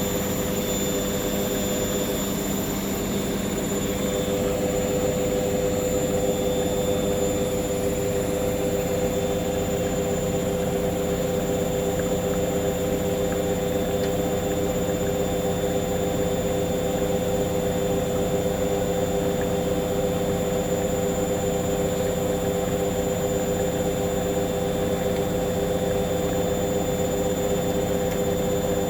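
Hoover washing machine on the final spin of a cotton 90 wash, its drum spinning at high speed with a steady motor whine made of several held tones.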